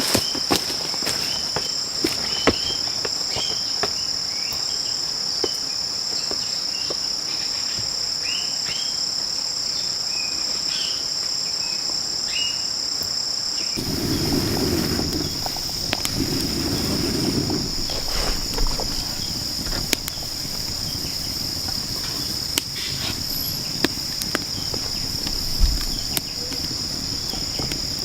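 Steady, high-pitched insect chorus, crickets or similar, with scattered clicks and short chirps over it. A little before halfway the sound changes, and two short bursts of lower noise come in over the insects.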